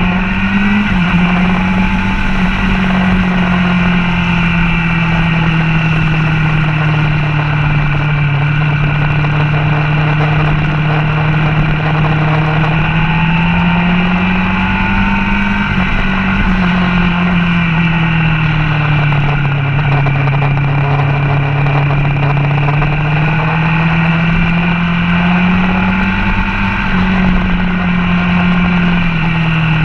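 Sport motorcycle engine under way on a racetrack, its pitch rising as it accelerates and falling as it slows, in long swells several seconds apart, with a few sudden steps in pitch.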